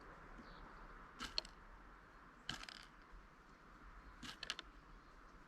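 Three short clusters of faint sharp clicks or taps, about a second and a half apart, over a quiet steady background.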